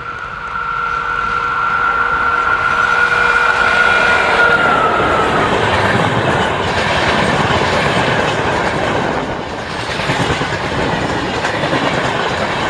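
Indian Railways diesel-hauled train passing close by. A steady high whine from the locomotive stops about five seconds in, while the rolling noise of the train builds about half a second in and stays loud.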